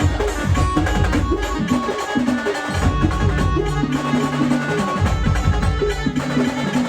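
Marathi brass band playing an instrumental stretch: a driving drum beat under long held melody notes.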